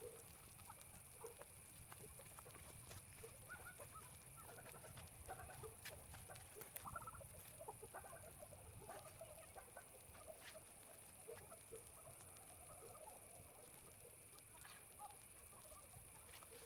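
Chickens clucking faintly, with short scattered calls throughout.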